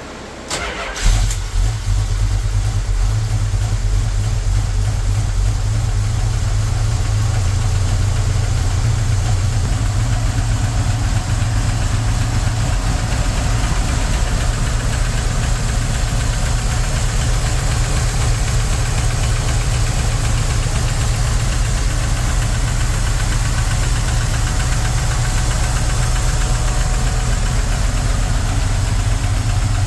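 1973 Dodge Charger engine firing after a brief crank about a second in, then settling into a steady idle. It is a cold start after months of sitting unrun.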